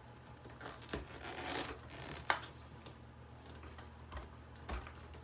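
Faint clicks, taps and scraping of hard plastic vacuum-cleaner parts being worked by hand to pry a part loose, over a steady low hum.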